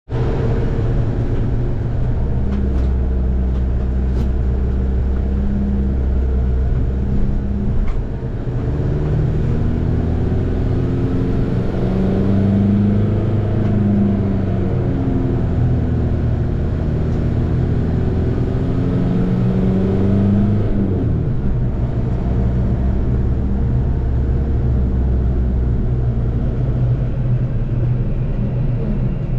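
Tuned Seat Ibiza FR's turbocharged 2.0 common-rail diesel four-cylinder running hard under load, its note climbing through the revs and dropping back at each gear change.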